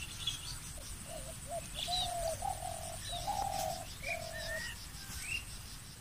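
Birds calling: a run of short low cooing notes between about one and four and a half seconds in, with scattered higher chirps from other birds.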